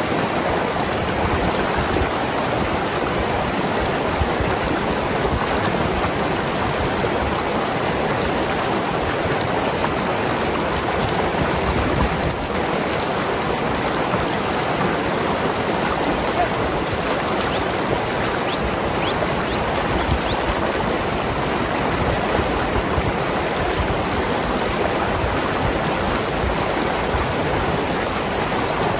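Mountain river rushing and gurgling over rocks: a steady, unbroken water noise.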